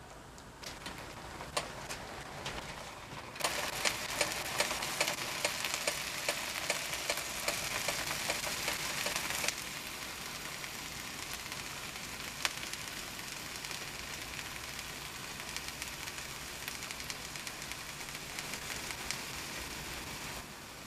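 Chopped tomatoes and egg frying in a pan: a steady sizzle with many small crackles and pops. It jumps louder and busier about three seconds in, then settles to a steadier hiss around ten seconds in.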